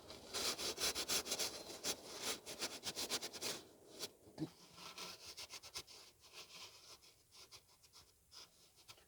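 Hands rubbing and scraping against parts, with light clicks, as the new oil filter is fitted. The strokes come thick for the first few seconds, then thin out and fade.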